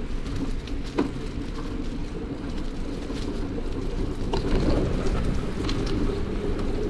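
Wind rumbling over a microphone carried on a moving bicycle, with a few sharp clicks and knocks from the bike jolting over the trail, about a second in and twice more near the middle.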